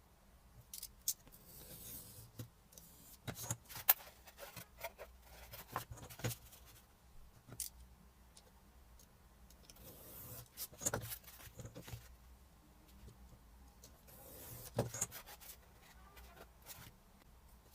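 Faint workbench handling sounds: scattered clicks and taps, with three short stretches of scraping or rubbing, from parts and tools being handled during a model build.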